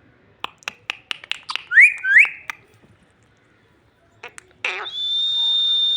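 Pet green parrot making a quick run of sharp clicks, then two short rising whistles, and near the end a long, steady, high whistling call.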